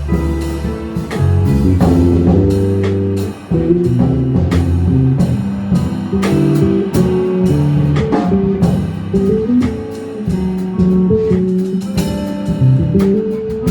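Jazz quartet playing live: a guitar line over held bass notes, with drums and cymbal strokes.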